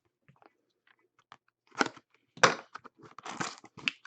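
Card-box packaging being torn open and crinkled: a few faint ticks, then several short crinkly rips and crunches in the second half.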